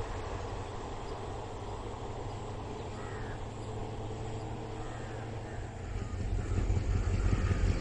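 Distant train rumbling low and steady across open country, with crows cawing a few times from about three seconds in. A louder low rumble swells near the end.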